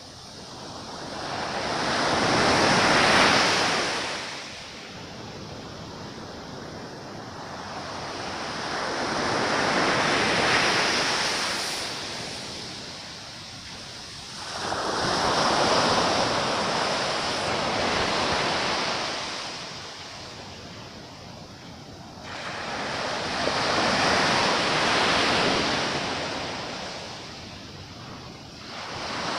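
Sea waves breaking and washing on the shore, four surges swelling up and falling back roughly every seven seconds.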